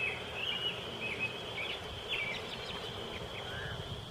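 Birds chirping in short, repeated warbling phrases over a steady background hiss.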